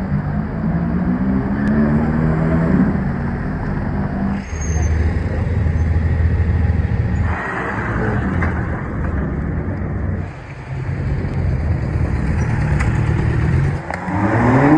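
Car engines running at low revs, with a low, steady rumble through the middle. One engine revs up near the end, its pitch rising.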